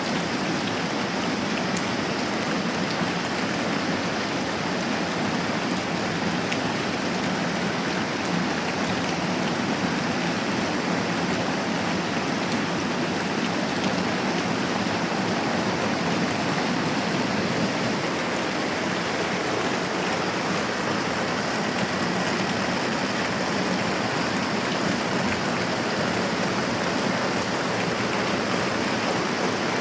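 Moderate rain falling steadily, an even, unchanging hiss of drops.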